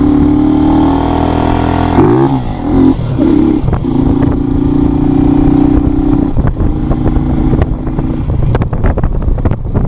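Small motorcycle engine revving hard, its pitch dipping and climbing a couple of times about two to three seconds in, then held at high revs. Near the end the engine note fades under rough, clattering noise.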